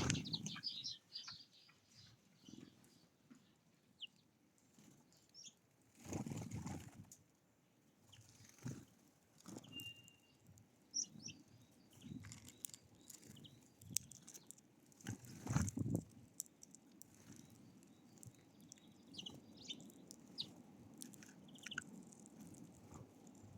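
Wild birds at a feeder: scattered faint chirps, with two louder flurries of wingbeats about six and fifteen seconds in.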